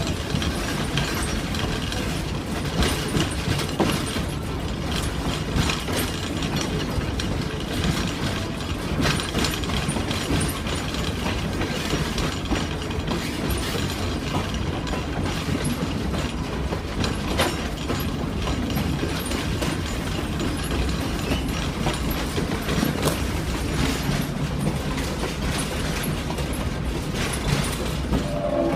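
Excursion train running on its track, heard from aboard the cars: a steady rumble and rattle with occasional sharp clicks and clanks from the wheels and couplings.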